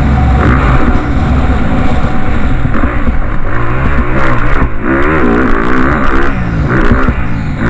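Loud motocross bike engines revving, their pitch repeatedly climbing and dropping as the throttle is opened and shut.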